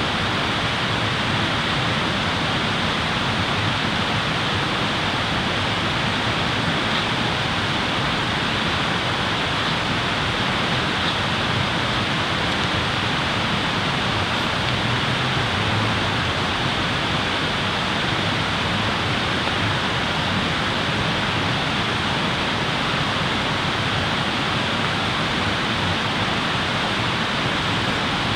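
Steady, even rush of flowing water, with no crackle or other distinct events.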